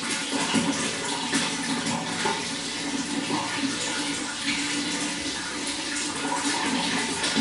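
Running water flowing and splashing steadily, with a constant rush and many small splashes.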